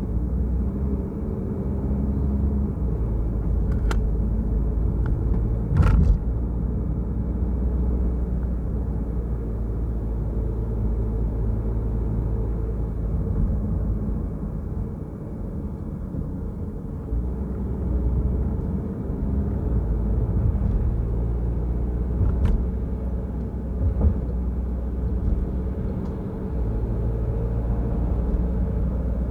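Car driving with a steady low road and engine rumble, with a few short, sharp knocks, the loudest about six seconds in.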